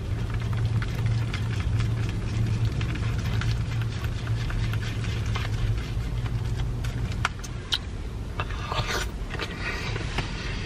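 A car's idling engine hums steadily and low, fading about seven seconds in. Over it come scattered small clicks and wet smacks of someone eating syrup-soaked pancakes.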